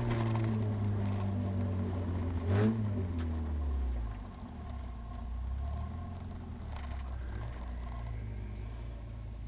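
Eagle Talon's engine heard from inside the cabin, its revs falling steadily as the car slows, with a brief rise in revs about two and a half seconds in. It then settles into a low, steady note.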